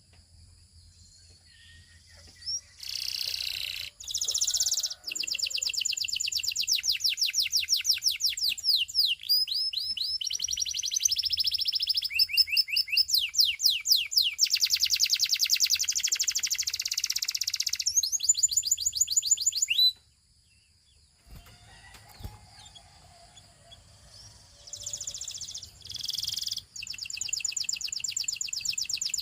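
A Russian canary singing in long rolling trills of rapidly repeated high notes, shifting from one trill to the next. It breaks off about two thirds of the way through, leaving only a few soft notes, then starts a new trill near the end.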